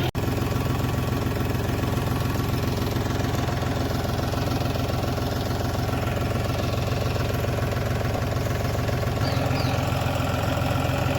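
John Deere tractor's diesel engine running steadily, with an even chugging firing beat.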